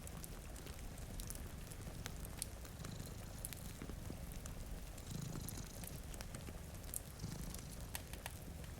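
A domestic cat purring, a low rumble that swells and eases with each breath about every two seconds. Scattered sharp crackles of a wood fire sound over it.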